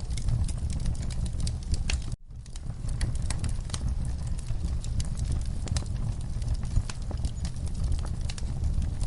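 Wood fire burning in a fireplace, crackling with frequent sharp pops over a low, steady rumble. The sound drops out for an instant about two seconds in.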